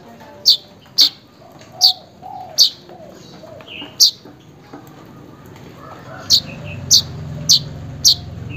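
Manyar (weaver bird) giving a series of short, sharp, high calls, about nine at uneven spacing. This is a lure call to set another manyar calling to a rival or mate. A low hum joins about six seconds in.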